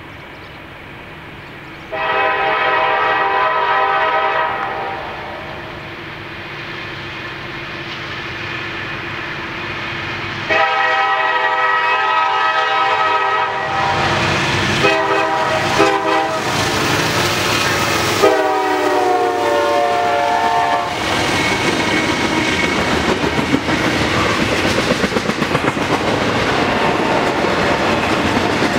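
Freight locomotive air horn sounding long blasts as the train approaches, then shorter ones, with the last long blast falling in pitch as the lead diesel locomotives, an SD60E and a C44-9W, pass close by. After that the double-stack intermodal cars roll past with a steady rumble and wheel clickety-clack.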